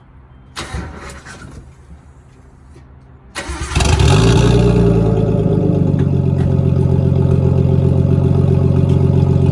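Nissan Skyline R32's turbocharged straight-six cranked and catching about three and a half seconds in, then idling loud and steady. The exhaust is straight-piped from the catalytic converter back, the cat-back and muffler removed.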